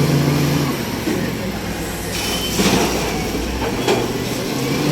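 Heavy truck's engine running steadily, with a brief high squeal and a few sharp metallic clanks about halfway through.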